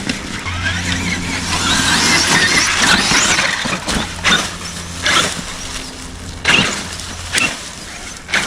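Traxxas X-Maxx electric RC monster truck driving on a dirt hill: a rush of tyres and drivetrain that swells and then fades, with a low steady hum underneath and several sharp knocks in the second half. The truck goes and then stalls, responding to the throttle only sometimes, a fault the driver cannot pin down.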